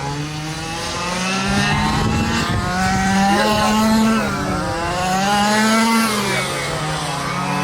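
A pack of quarter-scale RC trucks racing around the track. Their small engines rise and fall in pitch together every couple of seconds as they accelerate down the straights and back off for the turns.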